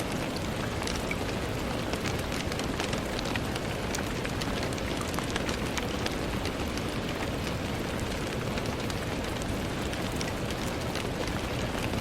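Steady gentle rain falling on a window: an even hiss speckled with many small, sharp drop ticks.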